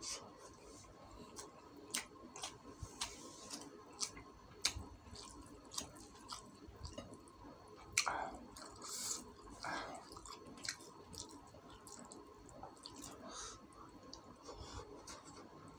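Close-up eating sounds: chewing chicken and rice by hand with wet lip smacks, heard as many short, irregular clicks.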